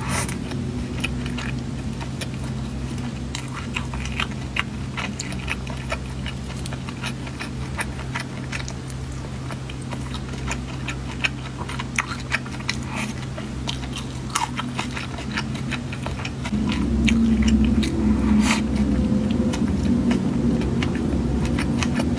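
Close-miked chewing and biting of soft pancake rolls: many small wet mouth clicks and smacks over a steady low hum. The low end grows louder about three-quarters of the way through.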